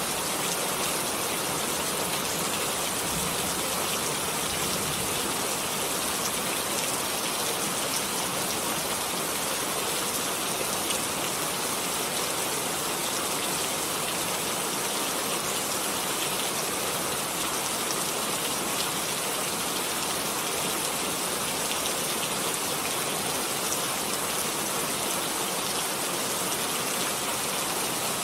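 Steady rainfall, an even hiss of rain with fine drop patter.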